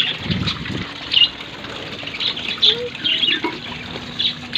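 Budgerigars in a colony aviary chirping and squawking: short, sharp calls, several times over, with a brief low rumble near the start.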